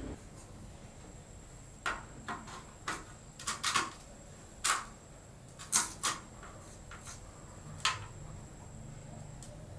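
About a dozen irregular sharp clicks and light knocks of hard objects being handled, some in quick pairs, between about two and eight seconds in.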